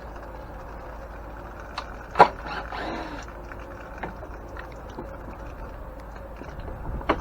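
Tools and metal parts being handled while a cover is taken off an old grain mill: scattered light taps and clicks, with a sharp knock about two seconds in and another near the end, over a steady low hum.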